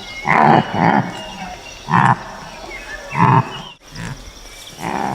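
Antelope calling: a string of about six short, low calls, each roughly half a second long, a second or so apart.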